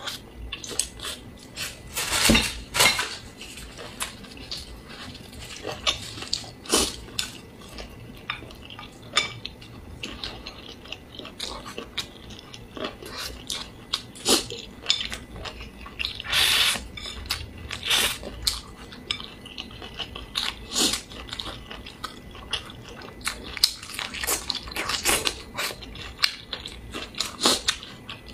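Close-miked eating sounds: chewing and lip smacking on a mouthful of braised pork and rice, with chopsticks clicking against the bowl. The clicks and smacks come irregularly, a few louder ones scattered through.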